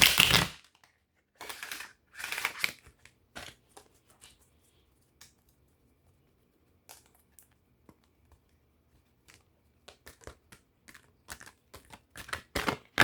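A deck of cards being shuffled by hand: papery rustles and short card slaps. They come thick in the first few seconds, thin out to scattered clicks, then pick up again near the end.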